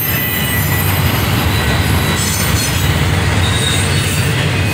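CSX double-stack container train's well cars rolling past: a steady heavy rumble of wheels on rail, with faint high wheel squeal at times.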